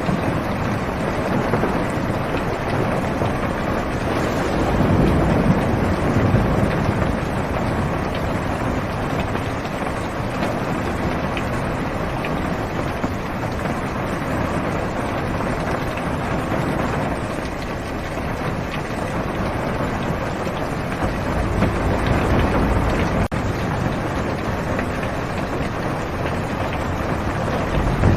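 Steady heavy rain drumming on a car's roof and windows, heard from inside the car. Low rumbles of thunder swell up about five seconds in and again past twenty seconds.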